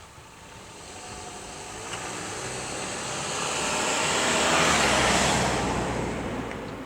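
Chichibu Railway electric train passing by: its running noise builds over a few seconds, is loudest about two-thirds of the way in, then fades away.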